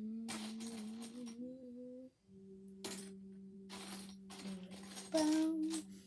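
A child humming a held, wavering note while small plastic Lego pieces click and clink, a few short clicks a second apart.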